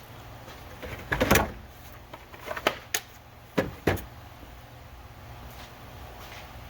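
A minivan's door and cabin being handled as someone gets in to start it: a handful of sharp knocks and clicks in the first four seconds, over a low steady hum.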